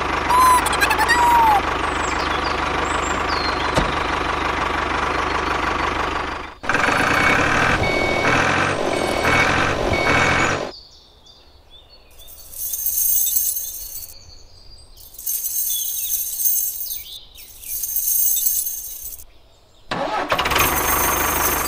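Tractor engine running, loud and steady at first, changing to a pulsing sound after about six seconds. It then drops away to a quieter stretch broken by short high-pitched sounds, and comes back strongly near the end.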